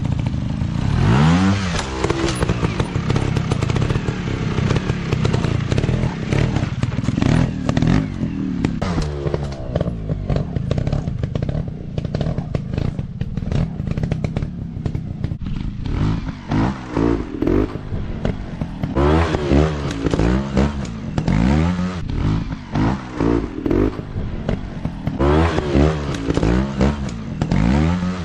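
Small dirt-bike engines revving, with the pitch rising and falling over and over as the throttle is opened and closed, and a sharp rev about a second in. Scattered clatter and knocks run through it.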